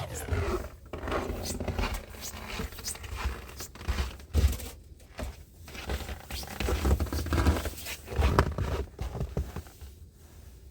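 Irregular crunching and scraping in snow, a quick stroke every second or so with uneven pauses, over a heavy low rumble.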